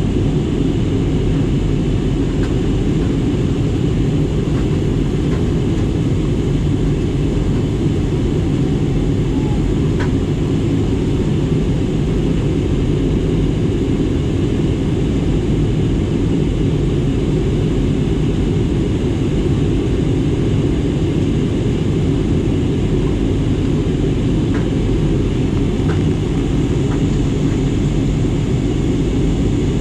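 Airliner cabin noise in flight: a steady, loud low rumble of engines and airflow heard from inside the passenger cabin.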